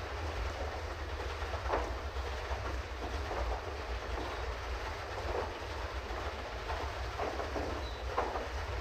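Pedal boat under way: a steady low rumble with irregular knocks and clatter from the pedalled paddle mechanism and hull.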